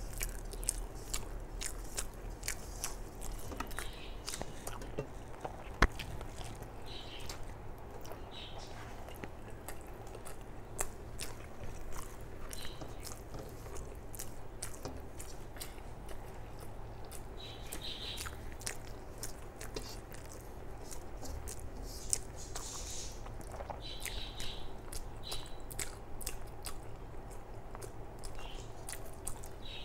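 Close-miked chewing and lip smacking of a mouthful of rice and curry, with soft squishing as fingers mix rice on a steel plate. A single sharp tap stands out a little before six seconds in.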